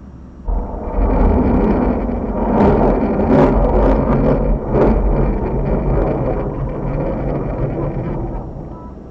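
Rocket launch roar: a sudden loud rumble about half a second in, crackling, that slowly fades away near the end.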